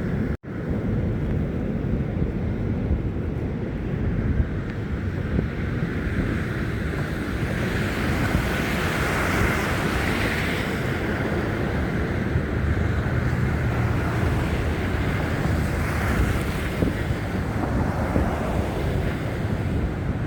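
Wind buffeting a phone's microphone in a snowstorm: a steady, heavy rumble with gusts, cut by a momentary dropout about half a second in.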